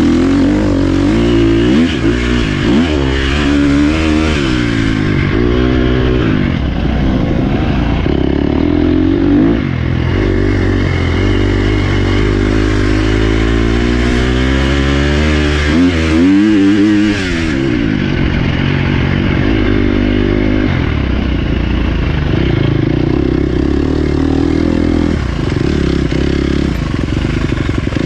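Dirt bike engine being ridden on an off-road trail, its pitch repeatedly rising and falling with the throttle and gear changes.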